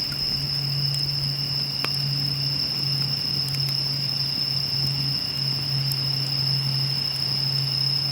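Wood campfire crackling, with a few sharp pops, the clearest about two seconds in. Behind it are a steady high-pitched insect chorus and a low steady hum.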